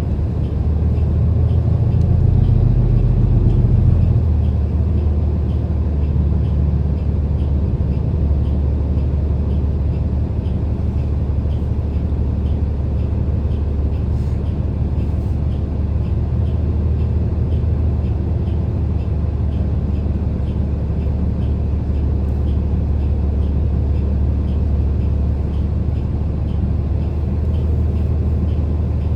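City bus running, heard from inside the cabin: a steady low rumble of engine and road, swelling briefly a second or two in.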